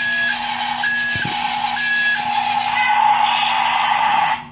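Battery-powered toy power tool playing its electronic motor sound effect: a whirring buzz with a repeating two-note beep about once a second, which cuts off suddenly near the end.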